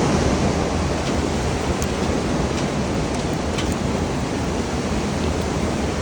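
Storm wind blowing hard, a steady rushing noise buffeting the microphone, with a few faint ticks.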